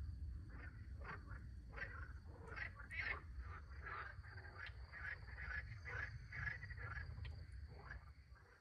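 Chorus of frogs croaking: many short, overlapping calls several times a second over a low steady rumble. The chorus drops away shortly before the end.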